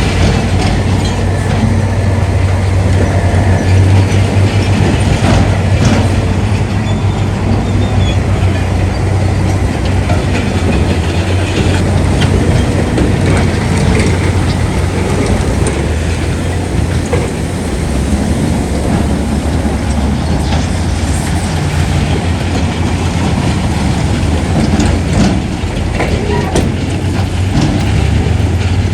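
Heavy diesel earthmoving machinery running, a steady deep engine drone with scattered metallic clanks and rattles throughout.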